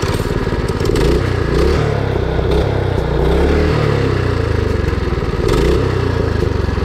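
Mini bike's Predator 212cc single-cylinder four-stroke engine revving up and down, its pitch rising and falling over and over.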